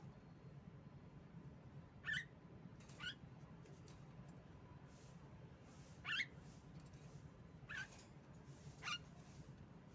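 Female Javan myna (jalak kebo) giving five short, sharp squeaky calls spaced a second or more apart, over a faint steady low hum.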